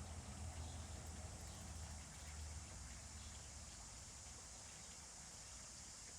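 Faint outdoor ambience with no distinct calls or splashes. A low rumble fades after about two and a half seconds, and a steady high-pitched hiss continues underneath.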